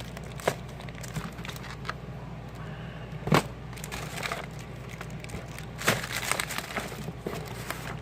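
Firework packages being handled and shuffled: scattered rustling and crinkling with light knocks, two sharper knocks about three and a half and six seconds in, over a steady low hum.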